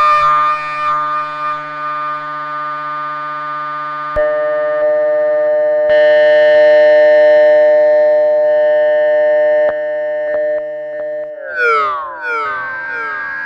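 TubeOhm Jeannie polyphonic synthesizer playing sustained chords, changing to a new chord about four seconds in. Near the end several notes glide down in pitch together, followed by a rising glide.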